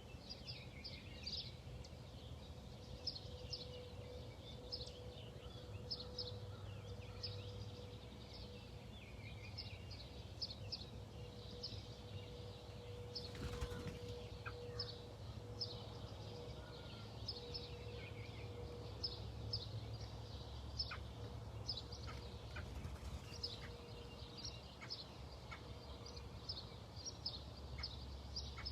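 Small songbirds chirping outdoors: many short, high chirps and call notes repeating throughout, over a faint steady hum and low background rumble.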